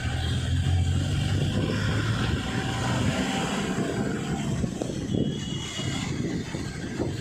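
Street traffic: a vehicle engine rumbles past, fading after about three seconds, and a horn toots briefly about five seconds in.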